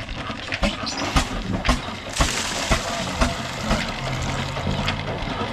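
Old Ruston oil diesel engine running slowly, with heavy beats about twice a second. A short burst of hiss comes about two seconds in.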